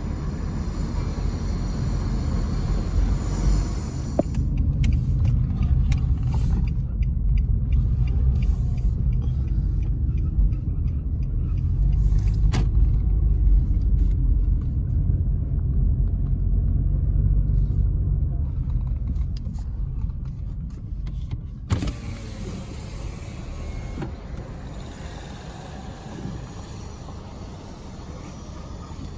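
Steady low rumble of a car driving, its engine and tyre noise heard from inside the cabin, with a few faint clicks and the rumble easing off in the last quarter.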